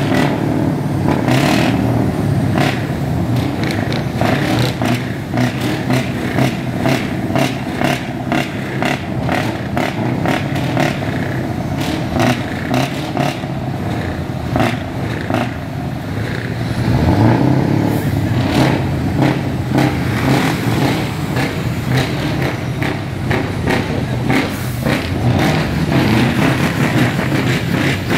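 Loud Scania truck diesel engine running with a dense, rattling exhaust note. Its revs rise sharply about seventeen seconds in.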